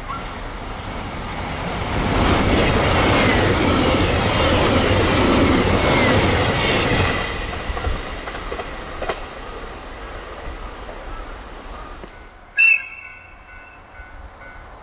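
JR Hokkaido 789 series electric limited express passing at about 96 km/h, its wheels clattering over the rail joints. The rush swells over a few seconds, stays loud, then fades as the train recedes. A brief sharp sound comes near the end.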